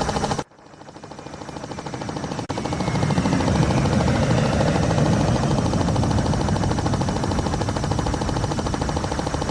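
Helicopter rotor chopping in a rapid, even beat. It cuts off abruptly about half a second in, builds back up over the next couple of seconds, then runs steadily.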